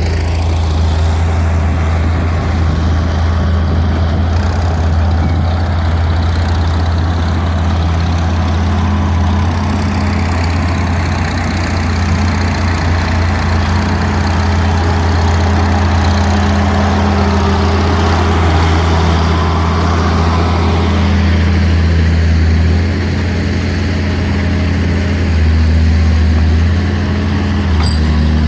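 Tractor engine running steadily, with a few small shifts in engine speed in the last several seconds.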